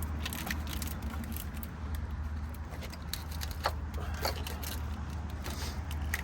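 Scattered light clicks and metallic clinks of hands working at parts and plugs in a car's engine bay, over a steady low hum.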